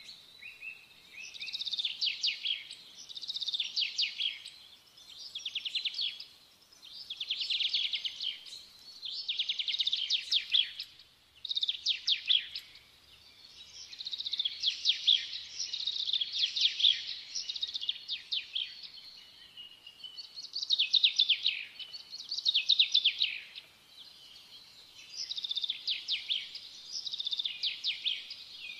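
Small birds chirping and trilling in high-pitched bursts of about a second each, one after another with short pauses.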